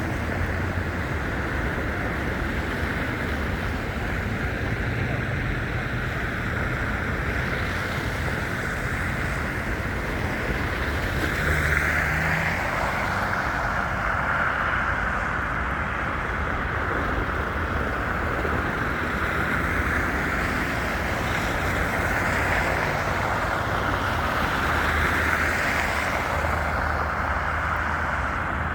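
Steady city traffic noise that swells and eases slightly a couple of times, with wind buffeting the microphone.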